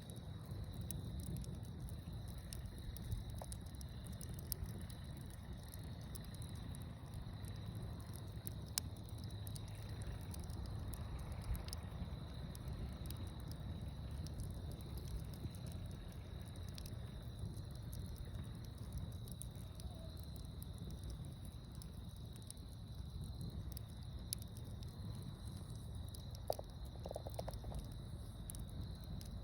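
Outdoor fire crackling with scattered sharp pops over a steady low rumble, while insects keep up a steady high trill.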